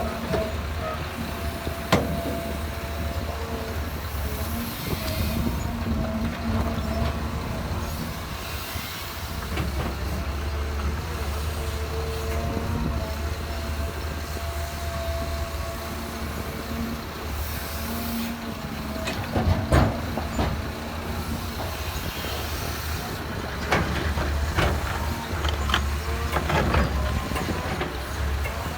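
Heavy diesel earthmoving machinery working: a steady low engine rumble with scattered metal clanks and knocks, the loudest about two seconds in and again just past the middle.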